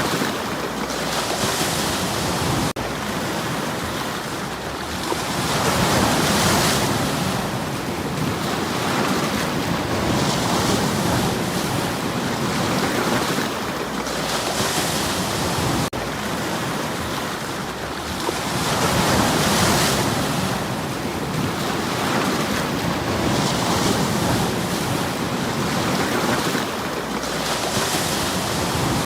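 Sea waves breaking and washing over stones on a shore, the surf swelling and fading every four to five seconds.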